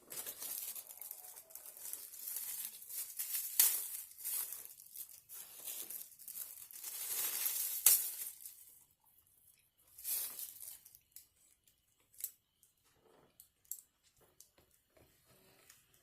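A food wrapper crinkling and tearing as it is unwrapped, in a long run of rustling with two sharp crackles, a shorter burst of rustling about ten seconds in, then a few small clicks and rustles.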